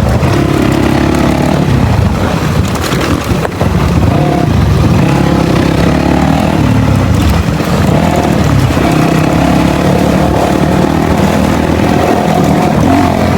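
Dirt bike engine running under way, its revs rising and falling, with a short dip about three seconds in.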